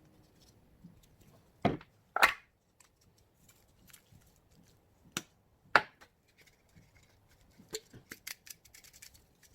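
Sharp cutting sounds from vegetable preparation: two pairs of loud snips or chops about half a second apart, then a run of faint quick ticks near the end.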